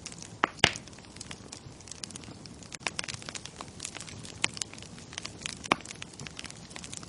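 Bonfire crackling: irregular sharp pops and snaps of burning wood over a steady low hiss, with a loud pop about half a second in and another near the six-second mark.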